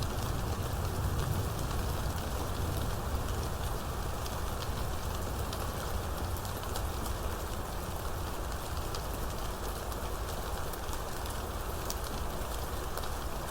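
Steady rainstorm: rain falling hard, with many sharp drop ticks on top and a low rumble underneath that is strongest in the first couple of seconds.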